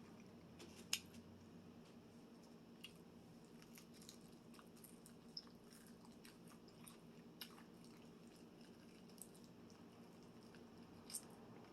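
Faint chewing and biting of crispy fried chicken wings, with scattered small crunchy clicks, the loudest about a second in and again near the end, over a low steady hum.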